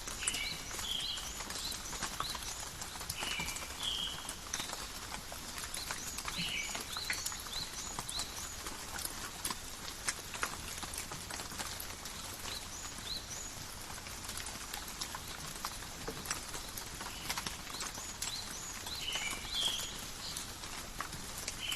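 Steady light rain with many separate drops ticking and pattering on leaves. A bird gives short chirping calls a few times, near the start, around four and six seconds in, and again near the end.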